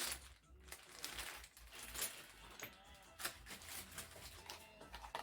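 Small objects being handled and tossed, making a scatter of light clicks and rattles.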